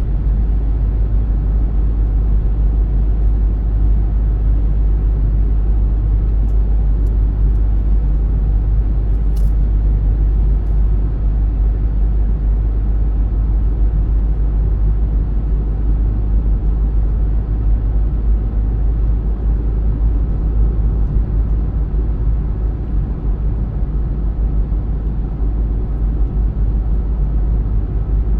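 Steady low rumble of a car driving along: road and tyre noise with the engine, heard unchanging throughout.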